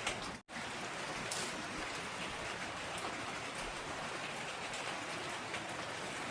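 Heavy rain falling steadily in a downpour, with a brief dropout about half a second in.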